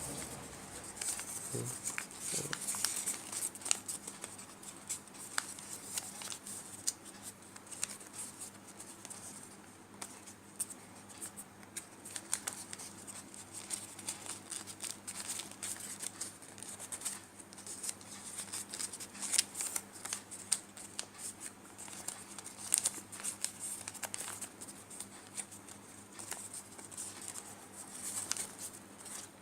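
A sheet of paper being folded and creased by hand into an origami crane: irregular soft rustles and crisp crackles as the paper is worked, over a faint steady hum.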